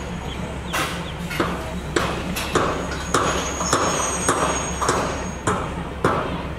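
Train cars rolling past, their wheels clacking over rail joints about every 0.6 s over a steady low drone.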